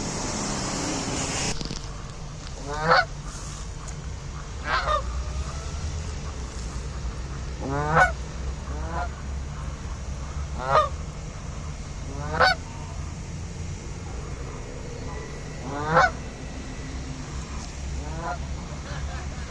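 Canada geese honking, about eight separate honks at uneven intervals, over a low steady background rumble. A hiss fills the first second and a half.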